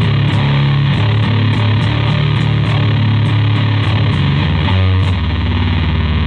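Bass guitar playing sustained notes through a homemade Big Muff Elk-style transistor fuzz pedal, into an Orange Terror Bass amp with its gain off and an Ampeg SVT 15E speaker cabinet. The notes are thick and fuzzed, changing pitch every second or so.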